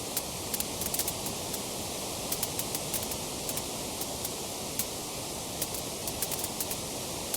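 Wood fire crackling: sharp, irregular pops and snaps, several a second, over a steady hiss and low rumble of flames.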